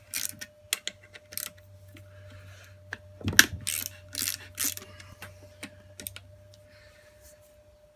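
Scattered metallic clicks and clinks of hand tools and parts as a Yamaha XT600 motorcycle engine's clutch is taken apart, with a busier run of them about three and a half seconds in. A faint steady hum runs underneath.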